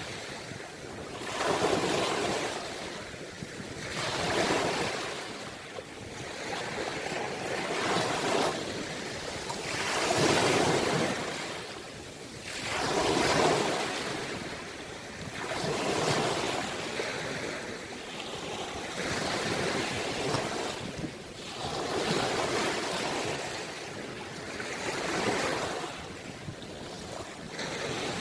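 Sea waves breaking and washing up the shore, a surge roughly every two and a half to three seconds.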